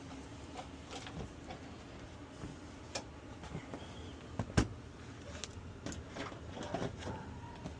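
Heat pump air handler blower running steadily in second stage, a low even hum, with scattered light clicks and knocks, the sharpest about four and a half seconds in.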